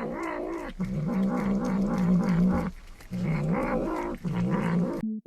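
A cat yowling in four long, low, wavering howls of one to two seconds each, cut off just before the end.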